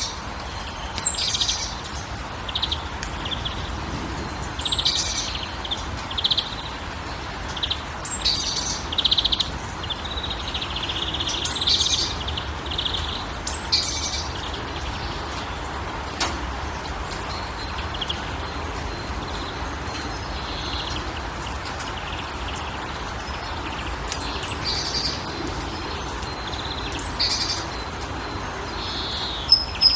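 Several songbirds chirping and calling in short, scattered phrases, some in quick trills, over a steady background hiss.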